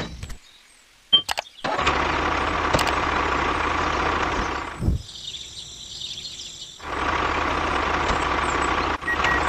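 A motor running steadily, starting about two seconds in after a click. It drops out for about two seconds in the middle, where a higher hiss takes over, then runs again.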